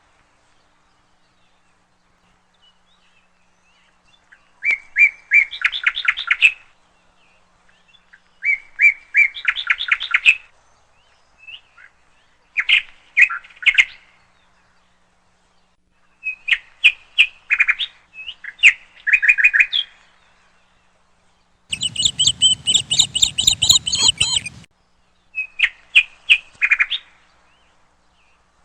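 A bird chirping in short bursts of rapid, twittering chips, about eight bursts separated by pauses. One burst about two-thirds of the way through is longer and fuller, with a low rumble under it.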